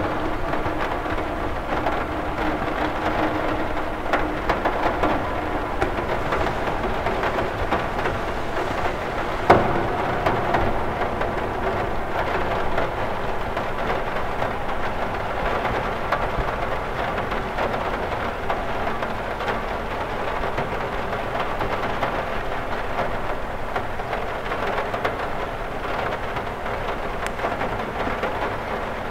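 Rain falling steadily on a cathedral window, an even wash of drops, with one sharper knock standing out about nine and a half seconds in.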